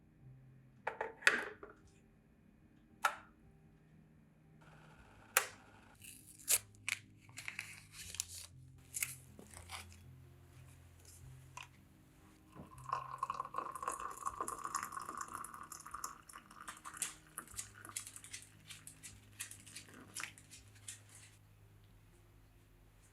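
Close-miked handling sounds: a few sharp clicks and taps, then a run of rustling, crinkling and tapping that is densest for a few seconds in the middle.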